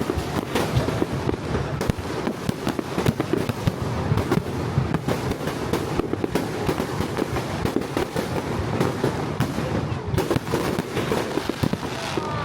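Fireworks display going off in a dense barrage, many bangs and crackles overlapping without pause.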